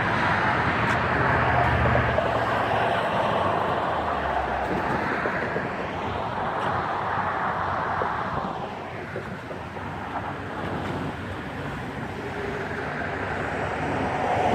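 Road vehicle noise: a steady rush of engine and tyres on the road, louder at first and easing off about eight or nine seconds in.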